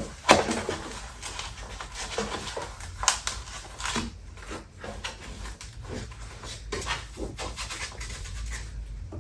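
Polystyrene packing pieces being pulled out of a cardboard box and handled. Irregular scrapes, rubs and knocks, the loudest knock just after the start.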